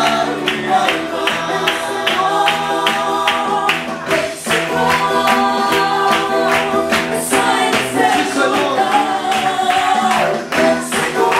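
A group of voices singing a worship song with instrumental accompaniment and a steady beat.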